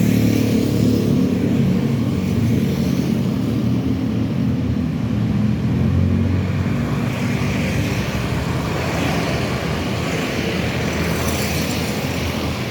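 Long, heavy freight train rolling past at a railway crossing, a steady loud rumble. The low rumble eases about seven seconds in and a higher rushing noise takes over.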